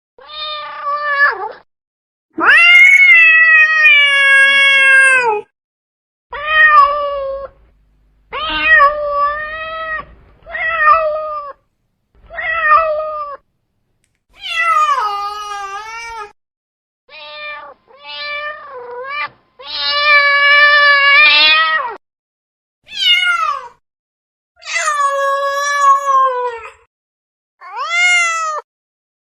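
Domestic cat meowing over and over, about fifteen separate calls with short silences between them. Most are brief meows; two are long, drawn-out yowls lasting two to three seconds.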